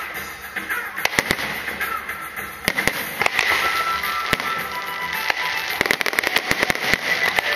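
Aerial fireworks going off in quick, irregular succession: sharp bangs and crackling over a continuous hiss, with music underneath.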